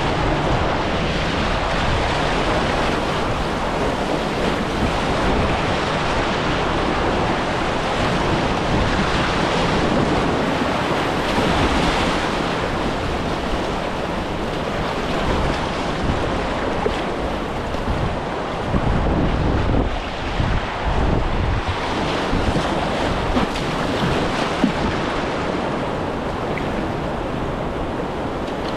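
Rushing river water around a kayak, a steady roar-like wash, with wind buffeting the microphone.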